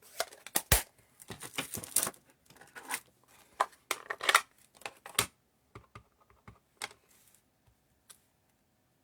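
Paper and stamping supplies handled on a craft table: paper rustling and sliding, with scattered clicks and knocks, the sharpest about three quarters of a second and five seconds in. Quiet in the last second or so.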